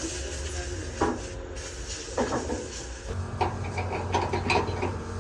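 Hard metal knocks and clinks, about two single knocks and then a quick run of ringing clinks near the end, over a steady low engine hum that gets stronger about three seconds in.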